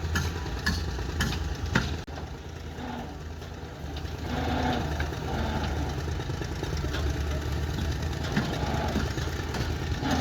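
Excavator's diesel engine running steadily at a low rumble, with a few sharp knocks in the first two seconds.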